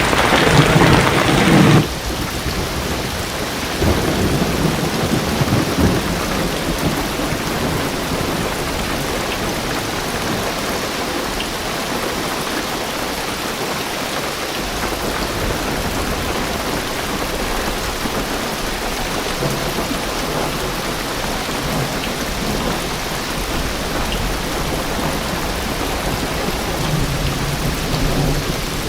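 Heavy rain drumming steadily on a car roof and windows, with low rolls of thunder. The rain is louder for the first two seconds, then drops suddenly to a steady hiss; a low rumble comes about four seconds in and again near the end.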